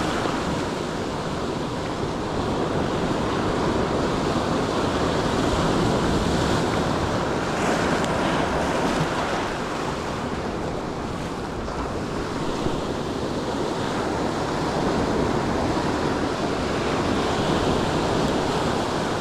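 Surf breaking and washing on the shore, a steady rush that swells and eases slowly, with wind buffeting the microphone.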